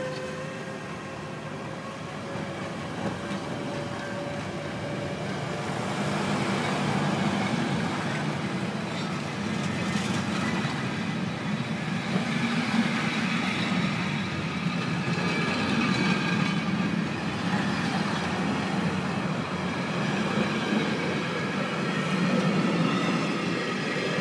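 A long, heavy Cargolink freight train pulling out of the station, its locomotive and wagons rumbling and growing louder as it gathers speed, with some wheel squeal and clatter from the wagons. A steady pitched tone that rises slightly fades out in the first few seconds.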